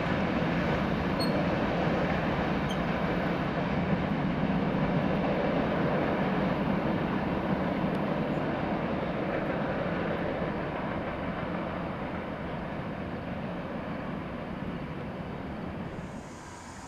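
Norfolk Southern freight train's rear cars rolling away on the rails: a steady rumble and clatter of steel wheels that slowly fades as the train pulls off, giving way suddenly to much quieter open-air background just before the end.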